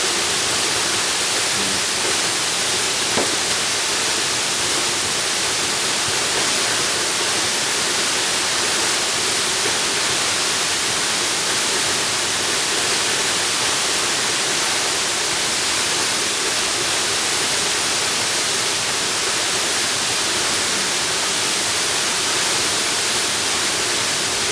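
Jungle waterfall: falling water making a steady, even rush of noise, strongest in the high range, with no change in level.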